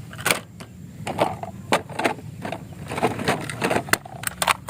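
Plastic toy vehicles clacking and knocking together irregularly as they are handled.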